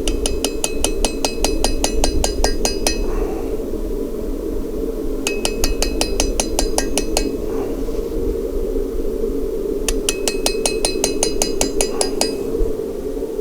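Blacksmith's hammer striking steel on an anvil in three quick runs of ringing blows, about seven a second. The runs come at the start, in the middle and near the end, with pauses between. A steady low rumble runs underneath.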